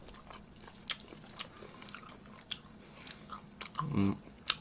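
Close-miked chewing and biting of food: eating spicy stir-fried pork and lettuce wraps, with scattered short clicks and smacks, and a brief low hum of a voice about four seconds in.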